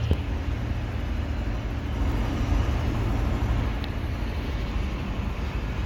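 Steady low rumble of engines running outdoors, with a short click right at the start.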